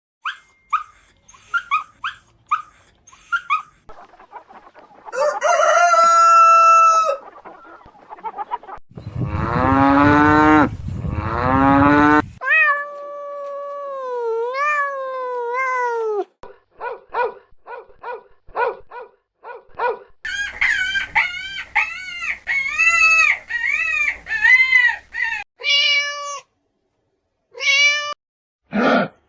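A string of different farm animal calls cut one after another: short high peeps, a long harmonic call, a loud low bleat-like cry, gliding meow-like calls and a run of arched repeated calls.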